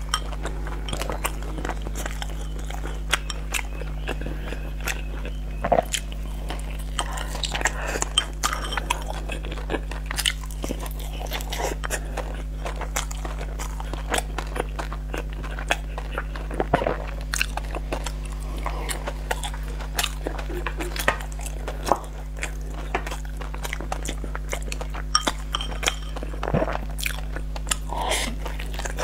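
Close-miked eating of sticky rice dumplings: wet chewing, biting and lip smacks with frequent short sharp clicks. A steady low electrical hum runs underneath.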